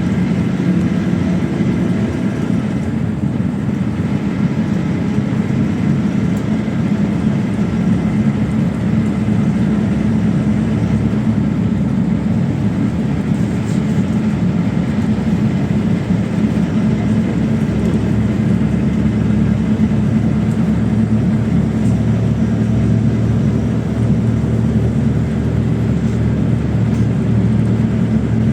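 Inside a PAZ 32054 bus on the move: a steady engine drone with road and rumble noise from the cabin.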